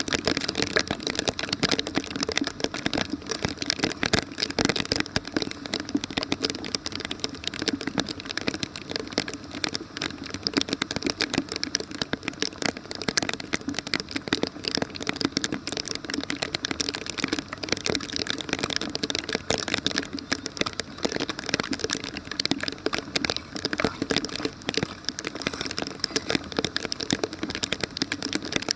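Heavy rain falling: a steady, dense crackle of drops striking the street and water.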